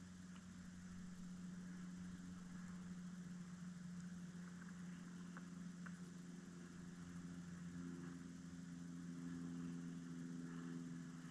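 Faint steady hum of a running motor, with a few light clicks.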